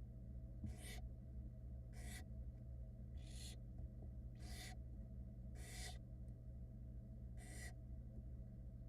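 Barn owl chicks giving their hissing, snore-like begging calls: six raspy hisses about one to one and a half seconds apart, over a steady low electrical hum from the nest-box camera.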